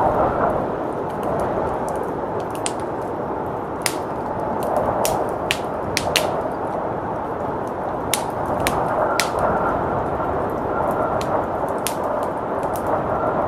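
Wood fire crackling, with sharp pops at irregular intervals, over a steady rushing blizzard wind.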